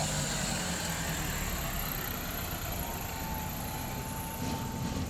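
Vehicle engines idling and running steadily in highway traffic, a continuous low rumble.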